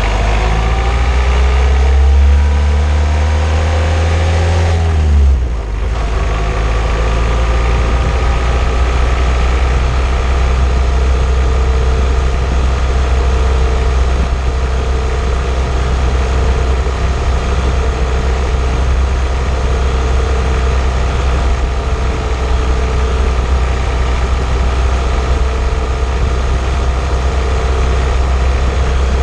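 An old car driving, heard from a camera mounted underneath on the anti-roll bar: the engine climbs in pitch for about five seconds, dips briefly, then climbs again slowly, over a heavy low rumble of road and wind noise.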